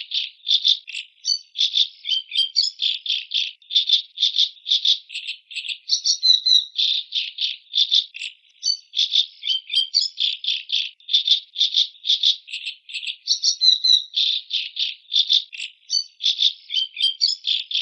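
Macaw giving rapid runs of short harsh, rasping calls, about four to five a second. The same stretch of calling repeats every six or seven seconds.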